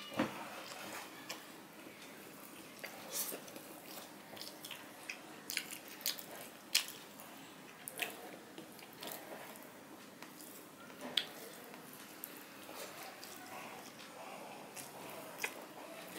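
Close-up eating sounds: chewing and mouth clicks from a man eating rice and fried hilsa fish by hand, with soft squishing as his fingers mix the rice on a steel plate. Short, sharp, irregular clicks come every second or so.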